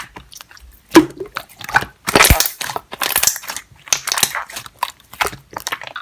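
Slime being squeezed and pressed by hand, giving irregular sticky pops and crackles.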